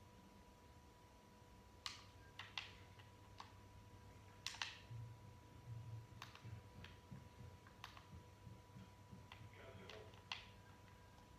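Near silence with about ten sharp clicks at irregular intervals and a few soft low thumps around the middle, over a faint steady electrical hum.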